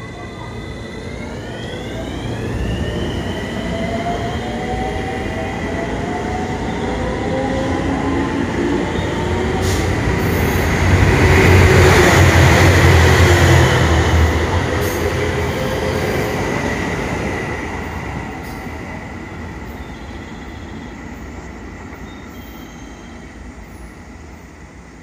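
Train passing through the station. A motor whine climbs in pitch at the start, then holds steady as the train grows louder to a peak about halfway through and fades away.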